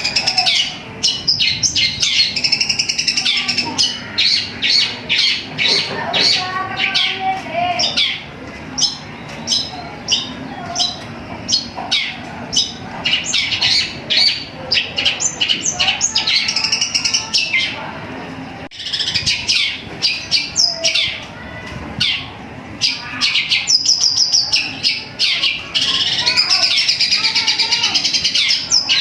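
Long-tailed shrike (cendet) singing a loud, rapid song of quick chattering notes mixed with longer trills, barely pausing, with a short break a little past the middle.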